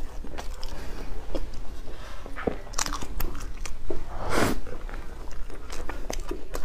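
Wet chewing and biting of soft bread thickly coated in chocolate sauce, with sticky mouth smacks; a big, noisy bite comes about four seconds in.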